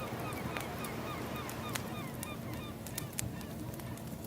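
Ambience track of a wood fire crackling with scattered sharp pops over a steady rushing hiss, while a flock of birds calls in many quick, short, falling honk-like notes.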